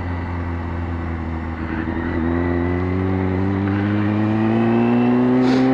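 Motorcycle engine running under way, its pitch rising slowly and steadily as the bike gathers speed.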